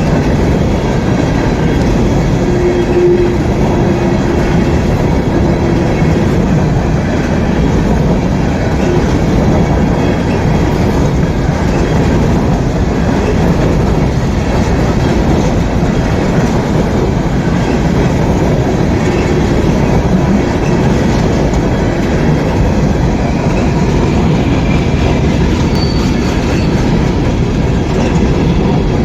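Freight train cars rolling past, a steady rumble and clatter of steel wheels on rail. There are faint brief squeals, one a few seconds in and one near the end.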